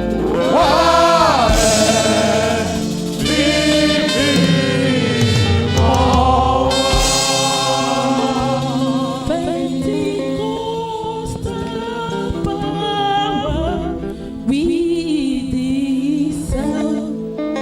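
Gospel praise team singing worship music over sustained low keyboard or bass accompaniment, the voices swelling and holding long notes with vibrato.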